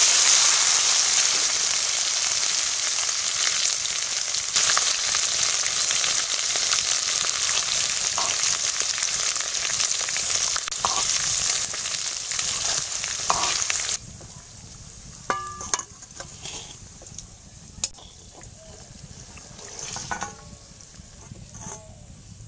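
Marinated paneer cubes sizzling loudly in very hot mustard oil in a karahi off the heat, stirred with a metal spatula, the sizzle slowly easing. About fourteen seconds in the sizzle cuts off abruptly, leaving faint metal clinks and scrapes as the paneer is tipped out onto a steel plate.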